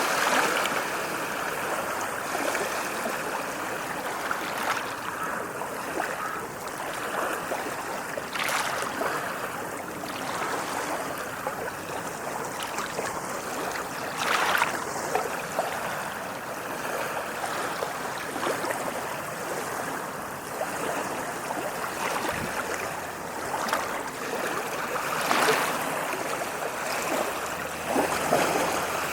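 Ocean waves washing onto a shore: a steady rush of water with a louder splash now and then.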